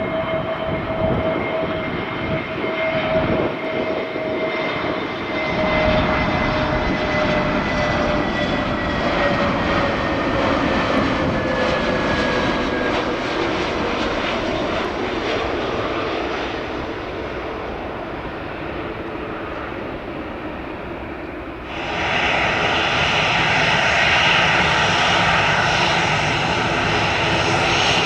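Airliner engines passing, their whine slowly falling in pitch as the aircraft moves away. About 22 s in the sound cuts abruptly to another aircraft's engines, louder and brighter with steady tones.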